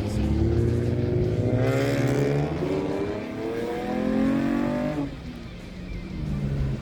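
Car engine accelerating hard, its pitch climbing for several seconds with a brief step partway through, then dropping off suddenly about five seconds in.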